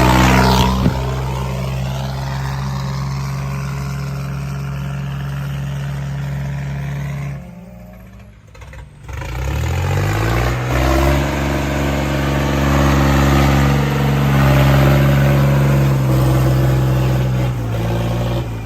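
Diesel tractor engine running steadily. Its sound drops away about seven seconds in, then it revs back up a couple of seconds later and holds at high revs.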